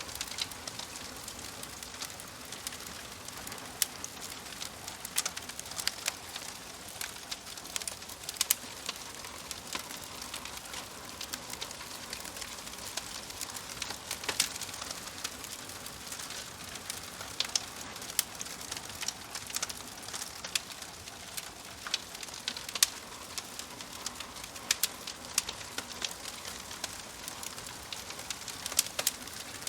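Wood fire crackling in a wood-burning stove: a steady hiss with frequent sharp pops and snaps at irregular intervals.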